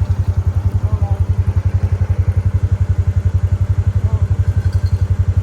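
A small engine running steadily, with a fast even low pulse of about ten beats a second. Faint short chirps sound over it twice.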